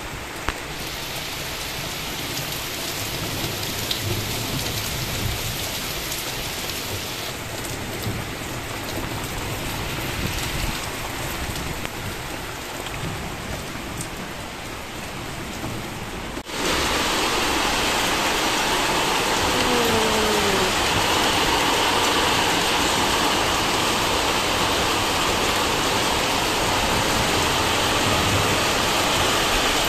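Heavy rain pouring down on trees, leaves and the ground in a steady hiss, turning abruptly louder about halfway through.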